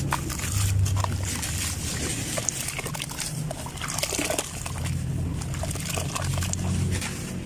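Clumps of earth crumbling and crunching: an irregular patter of small crackles over a low hum that comes and goes.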